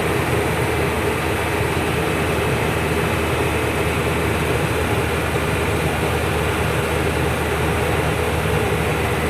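Truck on the move: a steady drone of engine and road noise, unchanging throughout.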